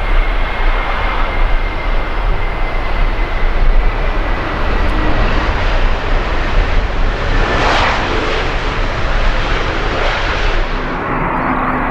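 Jet airliner's engines running as it passes, with a steady high whine under the noise that fades out over the first few seconds. The sound peaks at about eight seconds in, and its high hiss dies away near the end.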